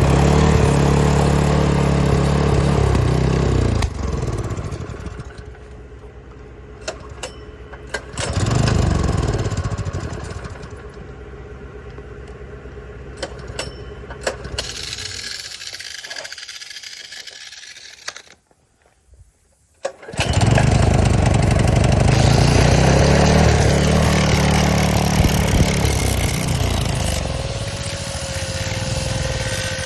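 Predator single-cylinder small gasoline engine revving up and dropping back several times. It dies away to silence near the middle, then starts and runs, revving again.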